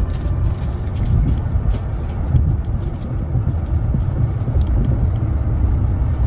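Steady low rumble of a moving train heard from inside the carriage, with faint rattles.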